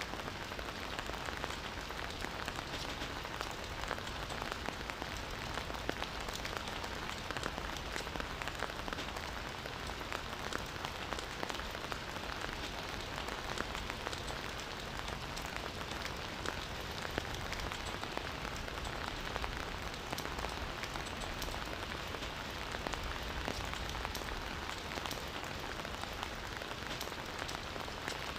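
Steady rain falling, a continuous hiss with many small drops pattering close by.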